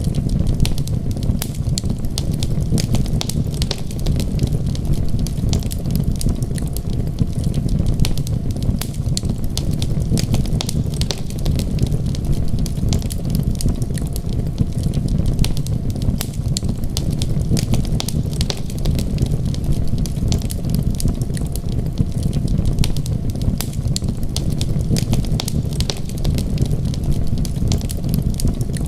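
Wood fire crackling, with rapid, irregular sharp pops over a steady low rumble.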